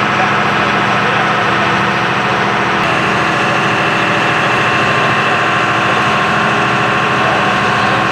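An engine running steadily, with a busy hum of several pitched tones. A higher whine joins about three seconds in.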